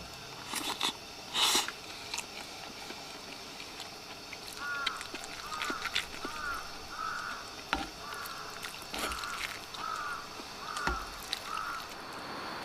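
A crow cawing, about nine caws in an even series, each caw a little over half a second apart, from a few seconds in until near the end. Before the cawing, two short noisy bursts are the loudest sounds, and a few sharp knocks fall among the caws.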